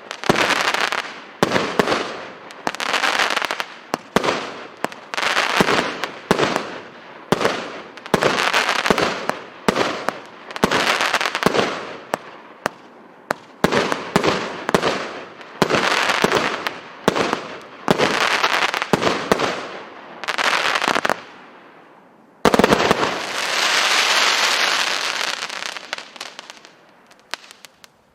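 Orient 'Rumba' fireworks battery (cake) firing shot after shot, about one a second, each launch followed by the crackle of its burst. About 22 seconds in a last loud shot is followed by a long crackle that fades away: the finale.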